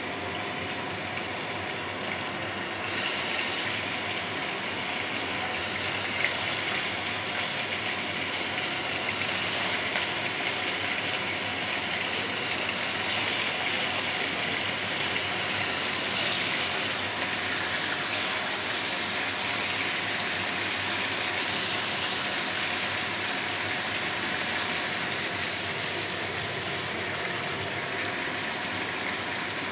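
Marinated chicken pieces sizzling as they fry in hot oil in a kadai, a steady hiss that grows louder about three seconds in as more pieces go into the oil.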